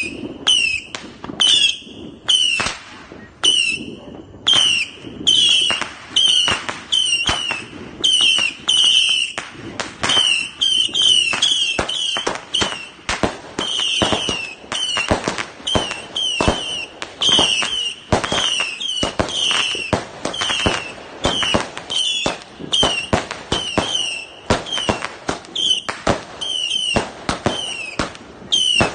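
A multi-shot fireworks cake firing shot after shot, about two to three reports a second, many of them with a short falling whistle.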